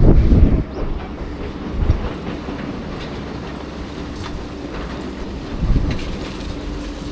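A heavy vehicle or machine running with a low rumble and a steady hum, with scattered clanks and heavy thumps at the start and again near six seconds in.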